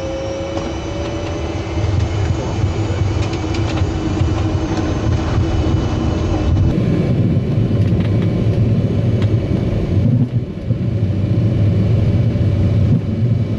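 Fokker 70 jet's Rolls-Royce Tay turbofans at takeoff power during the takeoff run. A low rumble runs under a faint whine that rises slightly at first, and the sound grows louder about two seconds in.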